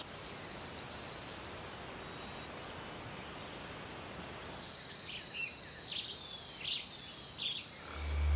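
Tropical rainforest ambience: a steady background hiss with a fast high trill in the first second, then several short high bird calls and chirps over a thin high insect drone in the second half. A low hum swells in at the very end.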